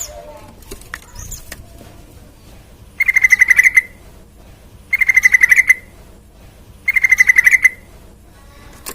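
Yellow-vented bulbul (trucukan) calling: three loud trills of about a dozen rapid notes each, roughly two seconds apart, with faint short chirps in between.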